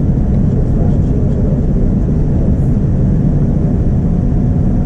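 Steady, loud low rumble of a Boeing 787-9's engines and airflow heard inside the passenger cabin, with a faint steady hum above it.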